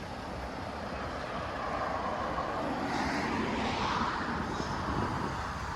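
A motor vehicle passing along the street, growing louder to a peak about four seconds in and then fading, over a low rumble of wind on the microphone.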